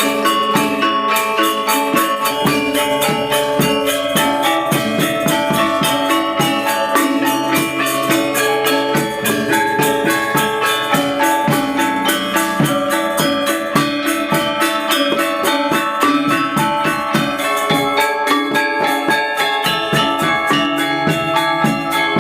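Music played on tuned metal percussion with cymbal-like jingling, keeping a fast, even beat throughout.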